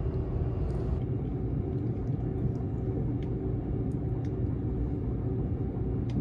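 Steady low rumble inside the passenger cabin of a Seibu Laview (001 series) limited express train, with a few faint clicks.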